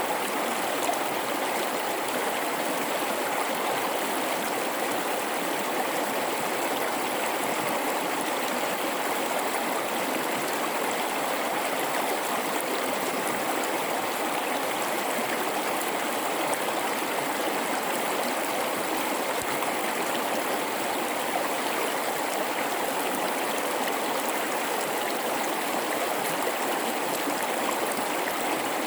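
River in a rocky gorge flowing steadily, a constant even rush of water with no change in level.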